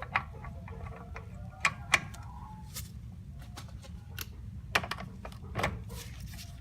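Scattered light metallic clicks and taps of hand tools being handled, a socket and wiggle-joint extension being fitted onto a bolt, a few sharp ticks spread over several seconds.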